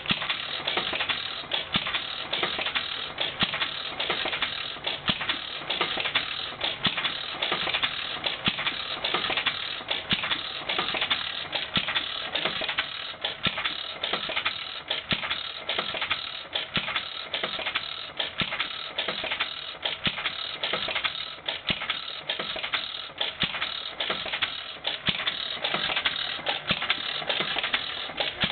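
1925 Witte 5 hp single-cylinder hit-and-miss flywheel engine running, a steady mechanical clatter of rapid clicks and knocks.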